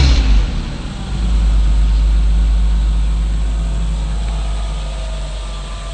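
Car engine running: a steady low rumble that swells about a second in and then slowly eases off.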